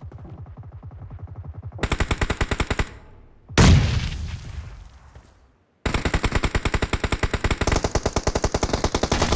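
Rapid automatic gunfire in a shooter video game, getting louder about two seconds in. About three and a half seconds in comes a loud explosion that dies away over two seconds. A moment of silence follows, then rapid fire starts up again.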